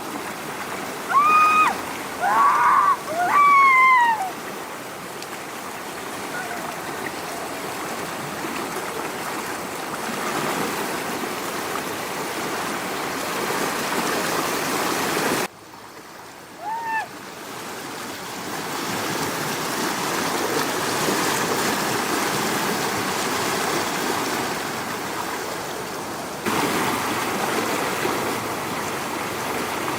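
Steady rush of flowing floodwater, with a few short high whimpers from a puppy in the first few seconds and one more about halfway through.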